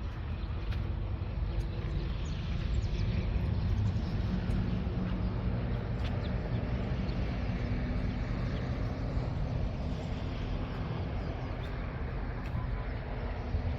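An engine running steadily with a low hum, a little louder about three seconds in.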